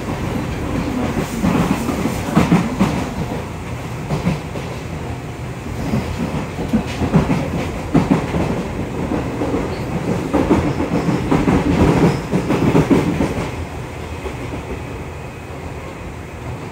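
Seibu 2000-series field-chopper-control electric train heard from inside a passenger car while running: a steady rumble with the wheels clacking over rail joints. It is loudest through the middle and eases off near the end.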